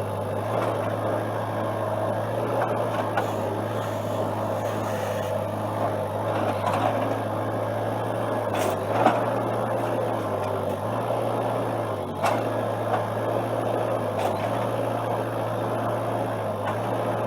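Excavator engine running steadily, with small changes in load and a few sharp knocks about halfway through and later.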